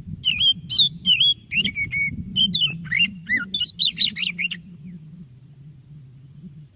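White-breasted Oriental magpie-robin (kacer dada putih) singing a fast, varied phrase of loud whistled notes that sweep up and down, breaking off about four and a half seconds in.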